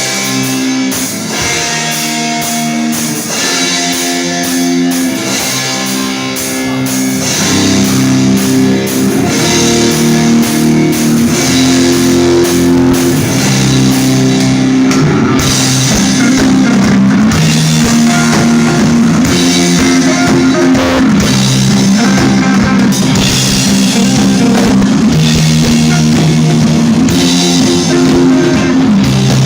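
Rock band playing live: drum kit and electric guitars playing a repeating riff, the sound getting fuller and a little louder about seven seconds in.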